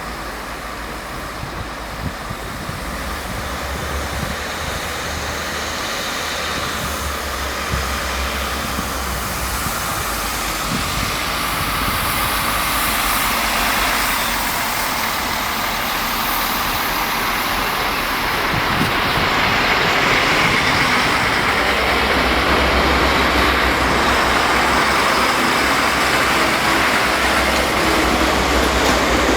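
A train running past on the tracks. The noise builds steadily over the first twenty seconds as it approaches and then stays loud.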